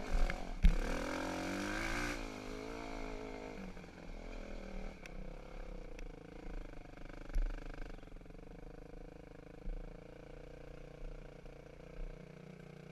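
Dirt bike engine revving up and down for the first couple of seconds, then running at a lower, steadier pitch that slowly gets quieter, with a few sharp knocks and clatter along the way.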